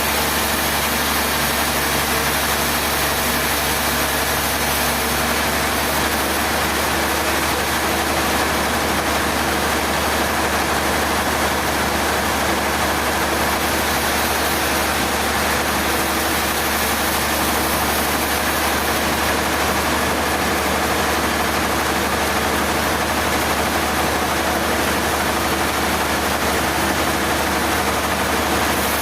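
An engine running steadily at a constant speed, with a dense even noise and a steady low hum that never changes.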